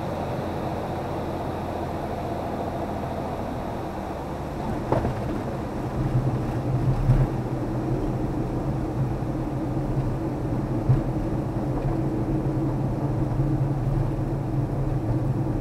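Aircraft engine droning steadily at low power on final approach, then a thump about five seconds in and a louder, rougher rumble with occasional bumps as the aircraft touches down and rolls out on the runway, heard from inside the aircraft.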